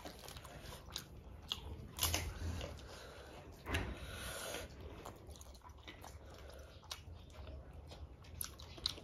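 Close-miked eating sounds: biting and chewing, with scattered short clicks and smacks, and one louder crunchy burst about four seconds in.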